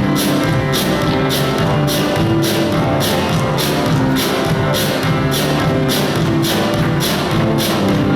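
Church band playing instrumental music with a steady beat, a bright percussion hit about twice a second over held bass and keyboard or guitar notes.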